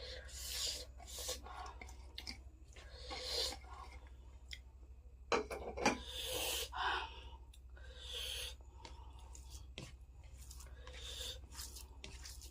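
Close-miked chewing and mouth sounds of someone eating, in irregular bursts with a few sharp clicks, over a steady low hum.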